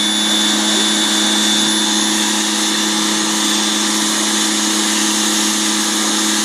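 Cheap electric pressure washer running steadily: an even motor hum with a high, constant whine over a hiss.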